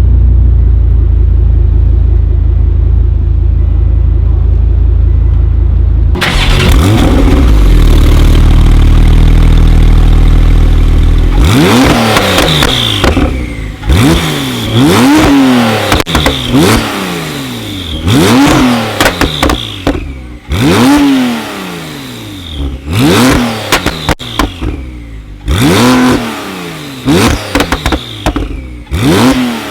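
Tuned car engine with a loud aftermarket exhaust, first running steadily with a heavy low drone. From the middle on it is blipped again and again: about a dozen short revs, each rising sharply and falling back, with exhaust pops and crackles between them.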